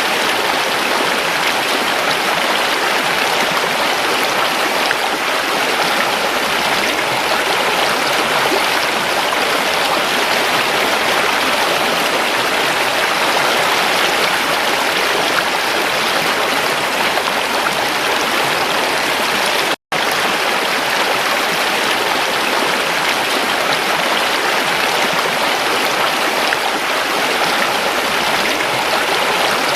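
Creek water running over rocks, a steady even rush. It cuts out for a split second about twenty seconds in.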